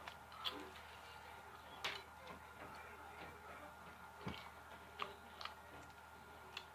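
Faint, scattered mouth clicks and smacks of someone chewing fried chicken, about six short clicks over a quiet background.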